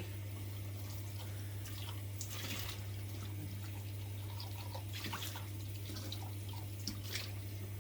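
Water dripping and trickling in a kitchen sink with a few light clinks, over a steady low hum.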